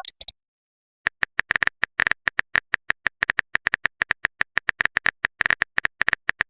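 Typing sound effect: a quick, even run of short keyboard clicks starting about a second in, as a chat message is typed out letter by letter. The tail of a chat notification chime ends right at the start.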